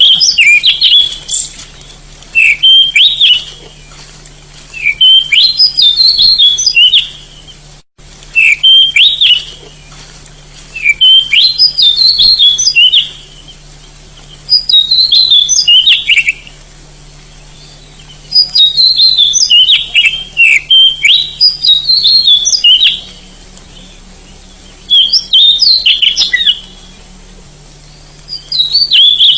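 Oriental magpie-robin (kacer) singing: about nine short, high, varied song phrases, each a second or two long, coming every few seconds with brief pauses between. A faint steady low hum runs underneath.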